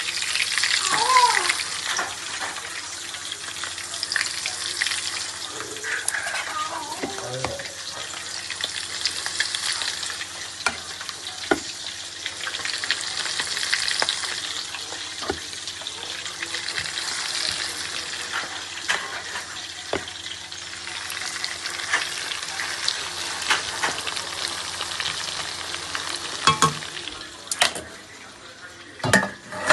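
Food sizzling in hot oil in a pan while it is stirred, with scattered clicks of the spatula against the pan. The sizzle swells and eases every few seconds and dies down near the end, where a few louder knocks are heard.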